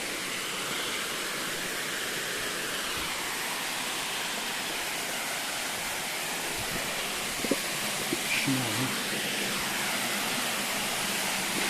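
Steady rush of water from a forest stream and waterfall, with a few soft knocks a little past the middle.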